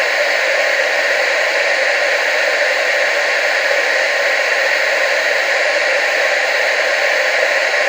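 Steady TV static hiss: an even, unchanging rushing noise with no low end, strongest in the upper middle.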